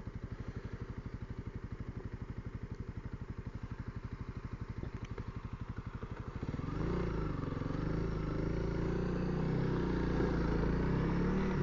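Honda CRF300L's single-cylinder four-stroke engine idling with an even, rapid beat; about six and a half seconds in the revs pick up and it runs on under light throttle, the pitch rising and falling.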